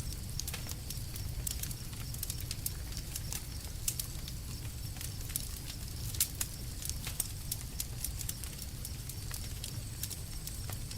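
Campfire burning, with a low steady rumble of the flames and irregular sharp crackles and pops of burning wood, a few louder pops among them.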